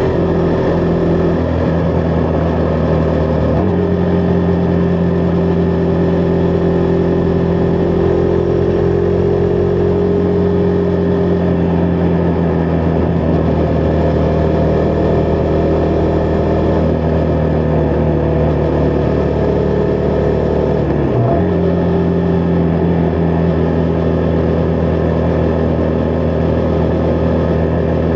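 Husqvarna Vitpilen 401's single-cylinder engine running under way, holding a steady note with small shifts in pitch, and a sharp brief dip and recovery about 21 seconds in.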